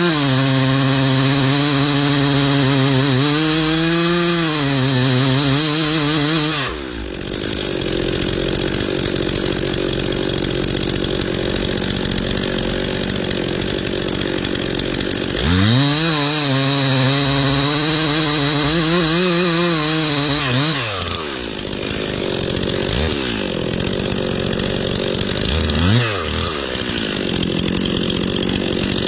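Two-stroke chainsaw revved to full throttle and cutting into wood for about six seconds, its pitch wavering under load, then dropping back to idle. About halfway through it is revved up and cuts again for about five seconds, then gives two short throttle blips before revving up once more at the end.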